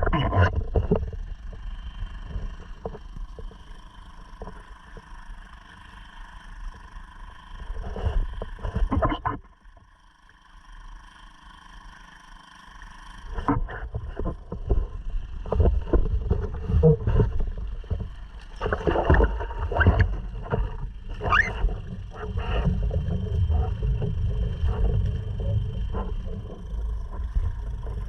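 Honda 2.3 four-stroke outboard motor running steadily on a sea kayak, with water splashing and knocking against the hull. The water noise drops away for a few seconds about a third of the way in, then returns stronger.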